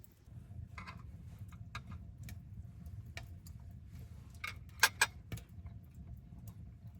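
Wood fire crackling: sharp pops and snaps at irregular intervals, the loudest a quick pair about five seconds in, over a steady low rumble.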